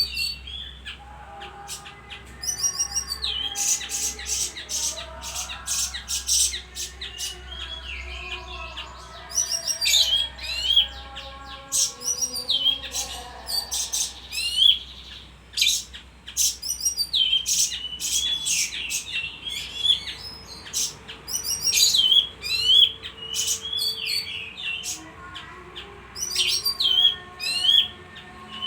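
A bayeman songbird singing continuously: bursts of rapid, high-pitched chirps and trills, repeated with short pauses. A faint low hum runs underneath.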